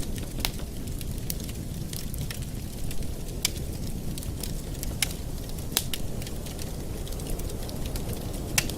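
Wood fire burning in a fireplace: a steady low rumble with sharp crackles and pops at irregular moments, the loudest pop near the end.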